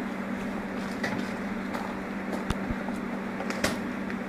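Steady buzzing drone of a large honeybee colony disturbed from its nest, with a couple of sharp knocks about halfway through and near the end.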